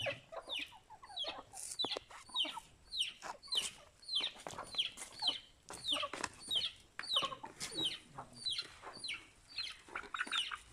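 Chickens calling: a steady run of short, high cheeps, each falling in pitch, about two or three a second.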